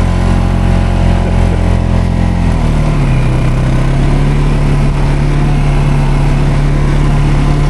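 ATV engine running steadily, its pitch shifting to a new steady note about three seconds in.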